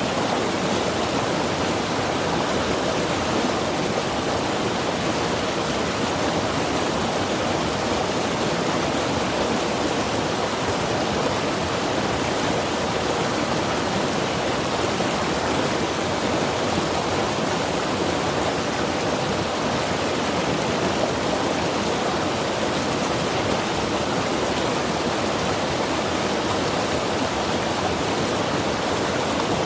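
Mountain river rushing steadily over rocks, a continuous even roar of white water.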